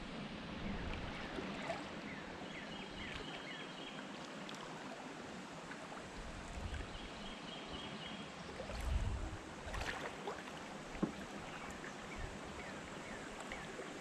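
Spring birds chirping and singing over a steady wash of water and light wind, with two short rapid trills. A few low thumps come about two-thirds of the way through.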